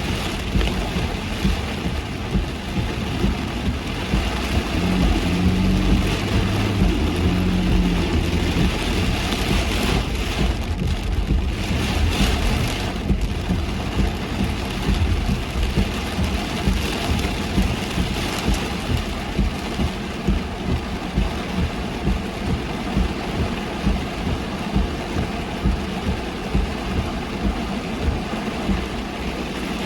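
Heavy rain on a car driving along, over the hiss of the car's engine and tyres on the wet road. A low thud repeats about once a second through the later part.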